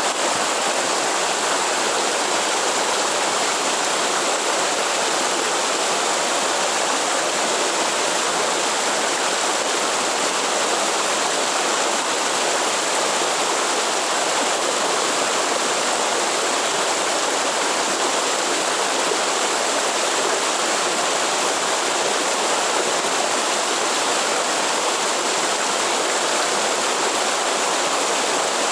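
Waterfall rushing steadily: an even, unbroken sound of falling and running water.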